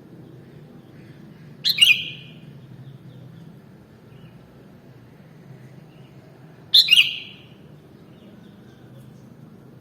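Sooty-headed bulbul (kutilang) giving two short, sharp calls about five seconds apart, over a steady low background hum.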